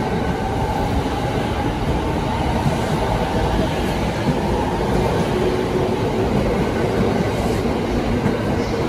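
JR Yokosuka Line electric commuter train running alongside the platform, a steady rumble of its wheels on the rails.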